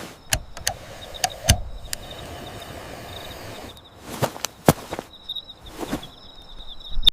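Crickets chirping steadily, with a dozen scattered sharp clicks and pops over them.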